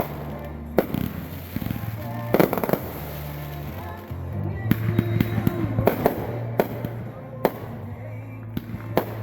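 Neighbourhood fireworks going off: about ten sharp bangs and pops at irregular intervals, with crackling between them.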